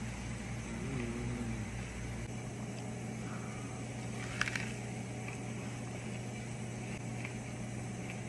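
Steady low mechanical hum, its deepest part cutting off a couple of seconds in, with a single sharp click a little past halfway.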